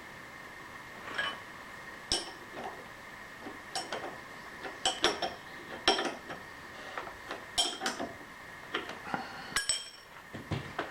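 Steel tooling and hand tools being handled and set down: a series of irregular metallic clinks and taps, some ringing briefly, over a faint steady high whine.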